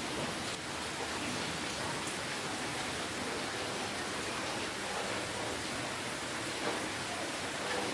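Steady rainfall: an even hiss of rain falling, with no distinct drips standing out.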